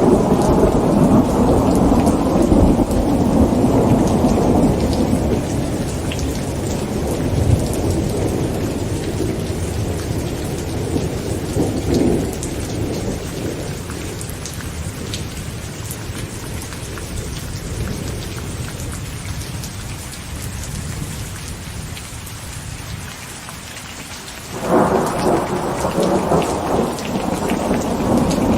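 Heavy rain pattering on a tent, with thunder: a long low rumble fades away over the first ten seconds or so, and about 25 seconds in a sudden loud thunderclap breaks in and rolls on.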